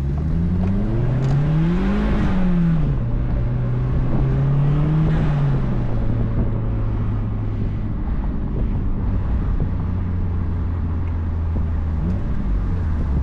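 2004 Mazdaspeed Miata's turbocharged four-cylinder engine and cat-back exhaust, heard from the open-top car. The revs climb for about two seconds and drop back, rise briefly again around five seconds in, then settle into a steady cruise.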